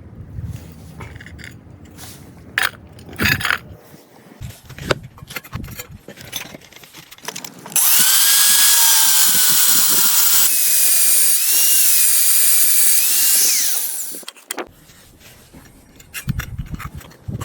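A power tool runs loudly for about six seconds, its whine dipping and rising as it is loaded. Before it comes a few seconds of scattered knocks and clatter.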